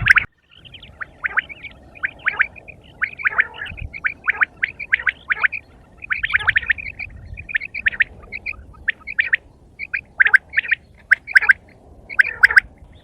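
Quail calling: a dense, irregular run of short, sharp chirps, several a second, broken by a brief pause just after the start.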